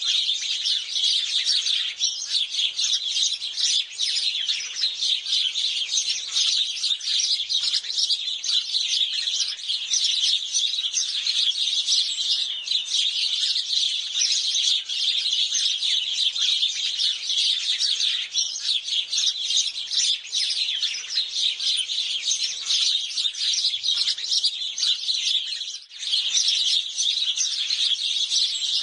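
House sparrows chirping in a dense, continuous chorus of many overlapping short chirps, with a brief lull near the end.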